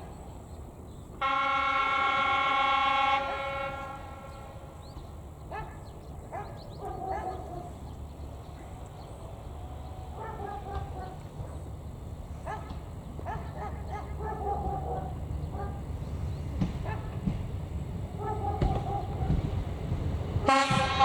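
Class 810 diesel railbus sounding its horn in one long blast about a second in, warning of its approach to an unguarded level crossing. Its low engine and wheel rumble then grows steadily louder as it nears, and a second horn blast starts just at the end.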